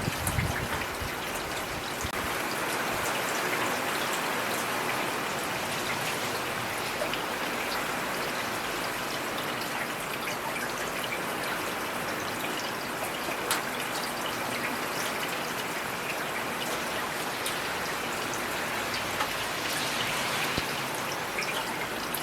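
Steady heavy rain, with scattered individual drops ticking sharply against nearby surfaces.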